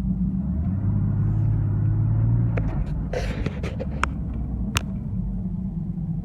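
Porsche 996 Cabriolet's flat-six engine running with a steady low rumble. A few short, sharp clicks come in the second half.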